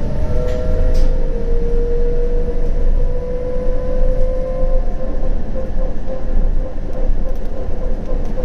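CAF Urbos 100 low-floor tram running along the track: a steady rumble of wheels on rail with an electric drive whine that rises slightly over the first few seconds, then holds steady.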